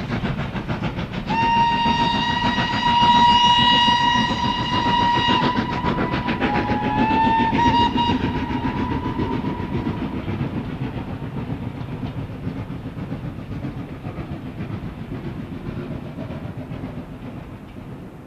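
Steam locomotive working past with rapid, even exhaust beats. It gives one long whistle and then a shorter one that rises in pitch. The sound then fades steadily as the train draws away.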